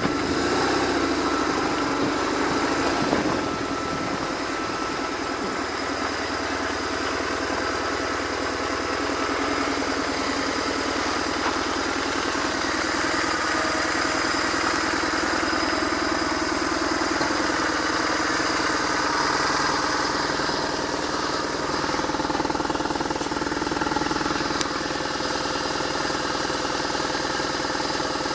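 BMW R1100R flat-twin engine running on the road, under heavy wind noise on the microphone.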